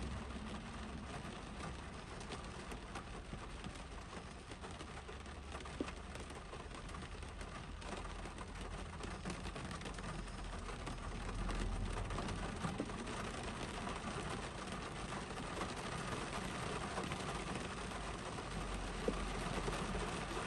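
Rain falling on a Honda CR-V's roof and windshield, heard from inside the cabin: a dense, even patter of drops over a low rumble. The rain grows a little louder about halfway through.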